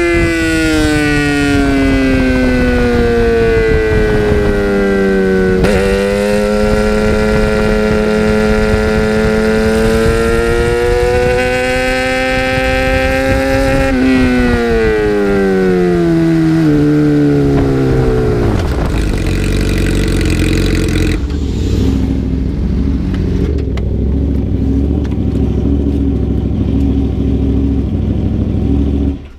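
2008 Yamaha R6 inline-four through an Akrapovic slip-on exhaust, its note falling and rising with the throttle. It then slows through a few quick downshifts and settles to idle. The sound cuts off suddenly near the end.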